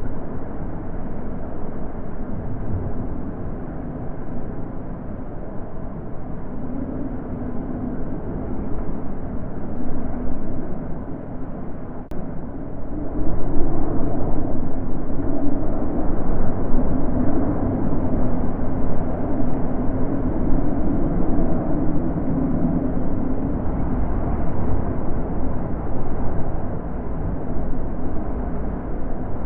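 Wind blowing in a steady low rush, swelling louder in a gust from about halfway through.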